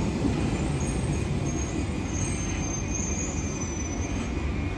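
London Underground Central line 1992-stock train moving along the platform: a steady rumble of wheels and running gear, with a faint high wheel squeal from about a second in until near the end.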